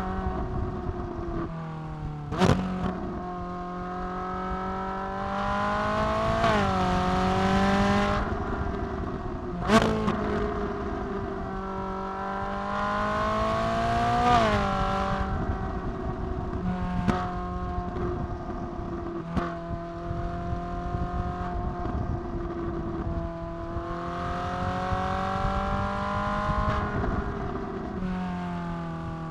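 Ferrari 458 Italia's naturally aspirated V8 under way, its pitch climbing in several bursts of acceleration and dropping back as it eases off. A few sharp cracks stand out, the loudest about two and ten seconds in.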